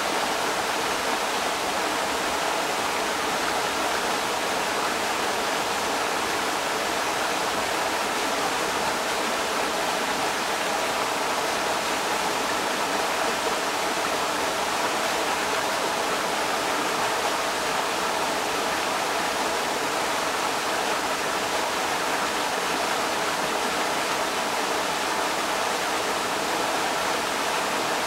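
Creek water rushing and splashing over rocks in a steady, unbroken wash of sound.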